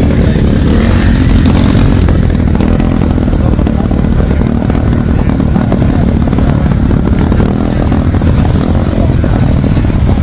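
Many motorcycle engines running together, a loud, steady mixed engine noise.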